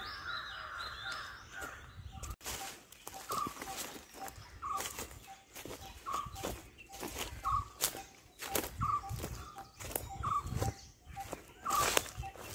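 Birds calling: one gives a short, hooked note about every second and a half, over a softer note repeated more quickly, while footsteps crunch on dry leaves.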